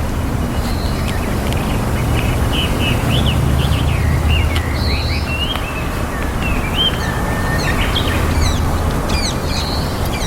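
Small birds chirping and calling in many short, varied notes, some sliding up or down, over a steady low rumble.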